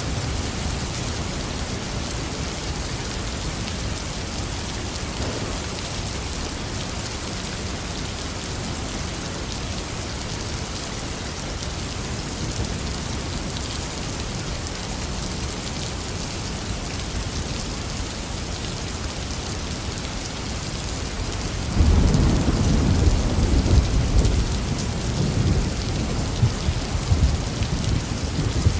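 Heavy rain falling steadily. About three-quarters of the way through, a sudden loud rumble of thunder breaks in and keeps rolling to the end.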